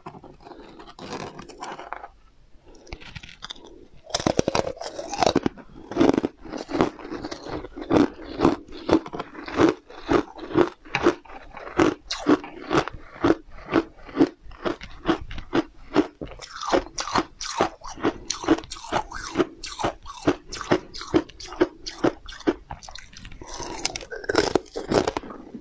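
Close-miked crunching and chewing of brittle, glassy hard candy: a steady run of crisp crunches about two to three a second, starting about four seconds in. Before that, quieter clicks and scrapes of the candy being pried off a metal baking tray.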